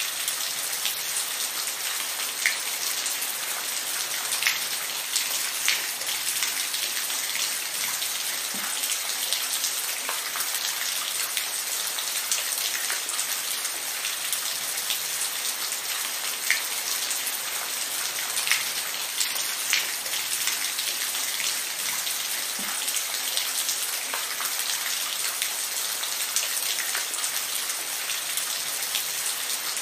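Steady rainfall: an even hiss of rain with frequent individual drops ticking sharply on a hard surface.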